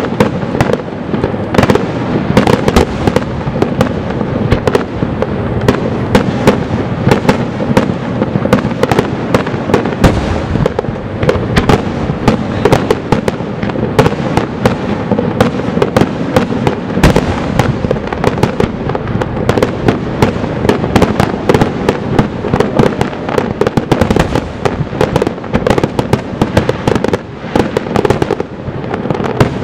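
Fireworks finale: aerial shells bursting in a dense, continuous barrage of loud booms and sharp bangs, one on top of another.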